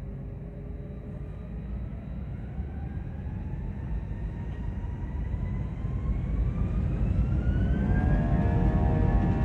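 Airbus A320 jet engines spooling up to takeoff thrust: a whine climbs steadily in pitch over a deep rumble, growing louder throughout, with a cluster of higher steady tones joining near the end.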